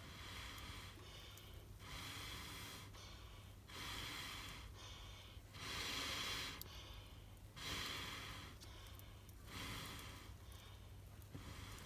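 A person's slow, regular breathing, one faint breath about every two seconds.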